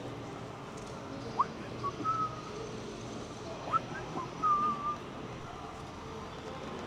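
Short high whistles: two quick upward swoops, each followed by a held note, over steady low background noise.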